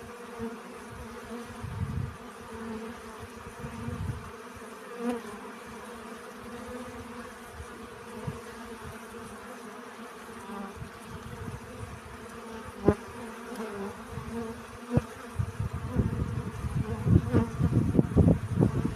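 Bees buzzing steadily at a flower, a continuous hum with a low fundamental and its overtones. A few short clicks fall in the middle, and in the last few seconds irregular low thumps and rumble grow louder than the buzzing.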